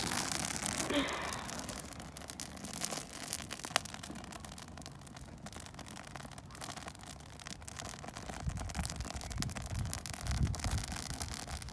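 Bonfire crackling, with irregular sharp pops and snaps and a low rumbling toward the end.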